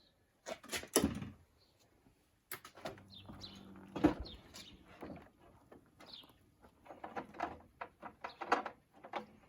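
A nailed pallet-wood cabinet being pried apart: irregular wooden knocks and clicks, with short squeaks as the brad nails pull out of the boards. There is one loud knock about four seconds in.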